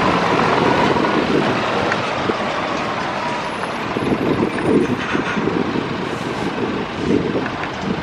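Lorries and road traffic running steadily.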